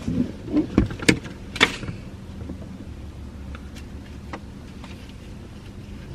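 A handful of sharp clicks and knocks in the first two seconds inside a car, then only the car's low steady hum.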